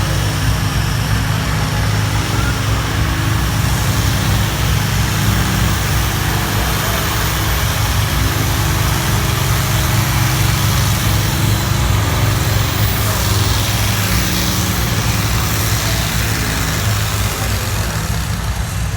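Farmall 560 tractor engine running loud and steady at a constant pitch.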